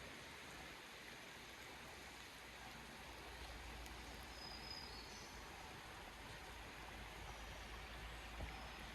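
Faint, steady rush of a river flowing through the gorge, with one short high chirp a little before the middle.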